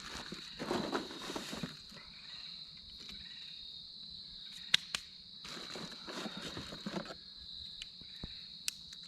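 Crickets chirping steadily in a continuous high-pitched chorus, with bouts of rustling handling noise and two sharp clicks a little before halfway through.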